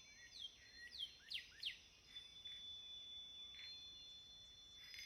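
Faint birdsong: a quick run of four short whistled notes sliding downward in pitch in the first two seconds, with a few fainter calls later, over steady thin high-pitched tones.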